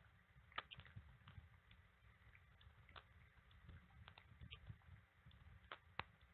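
Faint, irregular ticks of raindrops striking the nest camera, over a low wind rumble; two sharper ticks stand out, about half a second in and near the end.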